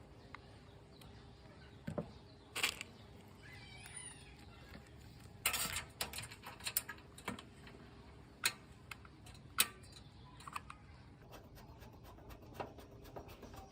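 Irregular light clicks and taps of small parts and tools being handled, with a short scrape about five and a half seconds in.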